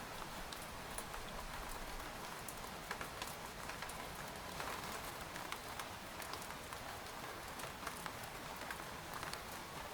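Steady rain pattering on a tent, with a constant hiss and many separate drop taps scattered irregularly through it.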